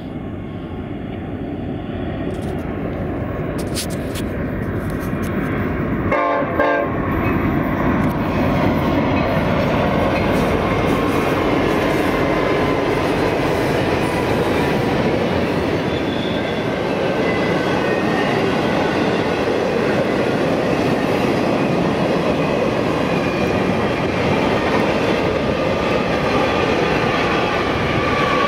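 Double-stack container freight train rolling past, its wheels clattering and rumbling on the rails, growing louder over the first several seconds and then holding steady. Near the end a Union Pacific diesel locomotive in the train's consist comes by.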